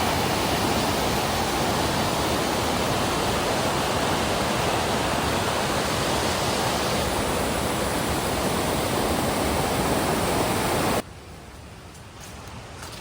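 Steady rush of fast-flowing river water. It cuts off abruptly about eleven seconds in, leaving a much quieter background with a few faint clicks.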